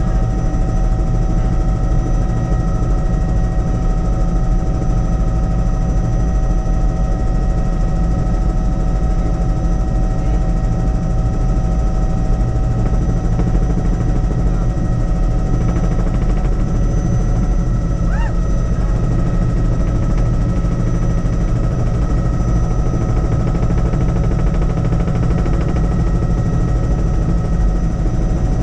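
Helicopter in flight, heard from inside the cabin: a steady, rapid rotor chop over a low drone, with several steady whining tones from the engine and transmission.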